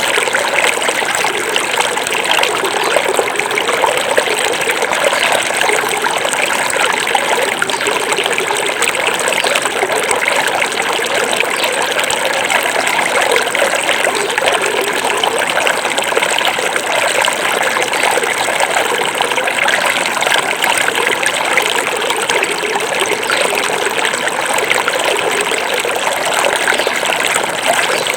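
Small forest river flowing steadily over stones, a continuous trickling and babbling rush of water with no change in level.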